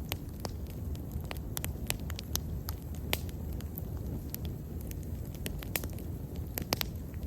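Wood bonfire burning, with frequent irregular sharp crackles and pops over a steady low rumble of the flames.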